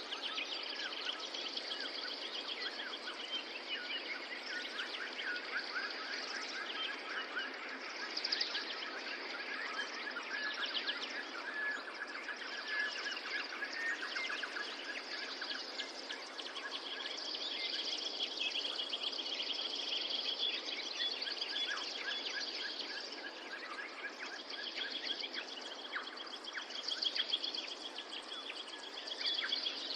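A chorus of many birds chirping and trilling at once, calls overlapping without pause, over a steady background hiss.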